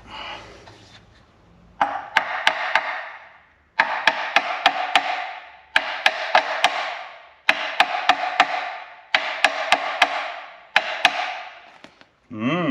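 Hammer blows on a stuck engine part, meant to jar it loose. They come in six bursts of sharp metallic taps, about one burst every two seconds, and each burst rings briefly.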